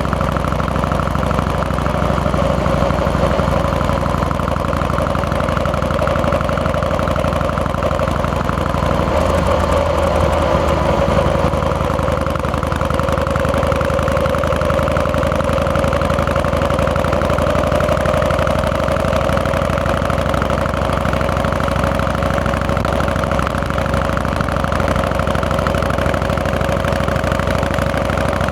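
Harley-Davidson Fat Boy's Twin Cam 88 V-twin engine running steadily while the motorcycle is ridden, with a shift in the engine note about nine seconds in.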